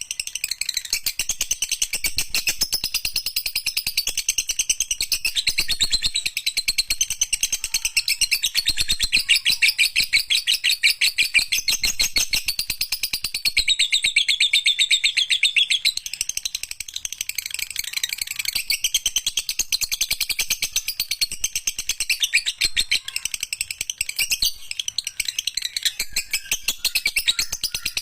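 Lovebird chattering in one long, unbroken run of rapid high chirps, the drawn-out 'ekek panjang' song prized by lovebird keepers.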